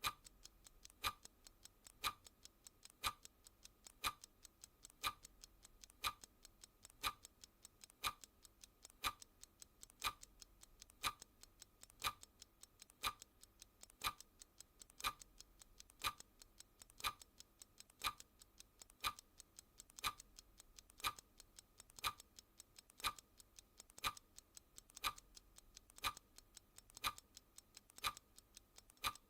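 Clock ticking: one sharp tick every second, with a quick run of fainter ticks in between from a sweeping second hand.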